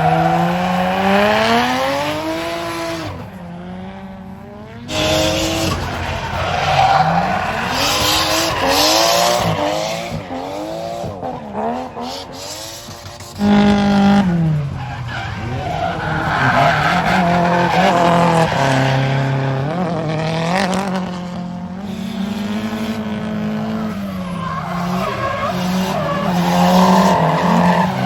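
Drift cars' engines revving hard, rising and falling with throttle and gear changes, over tyre squeal as the cars slide. The sound changes abruptly twice, about five and thirteen seconds in.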